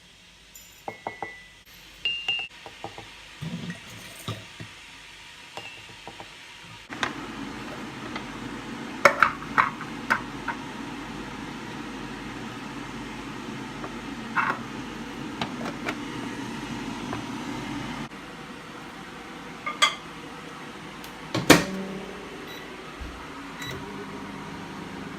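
Clinks and knocks of dishes and utensils, with a steady low hum from a running appliance through the middle.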